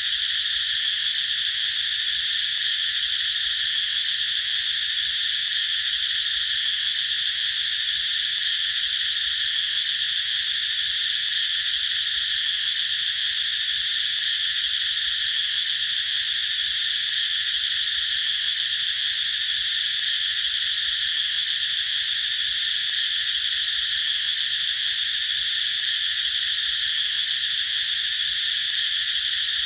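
Cicadas singing in a continuous high, shrill drone that holds steady without a break.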